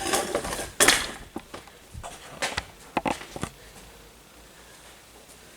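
Metal air-line fittings and hand tools clinking and clanking as they are handled and tried against each other: about a half-dozen sharp metallic knocks over the first three and a half seconds.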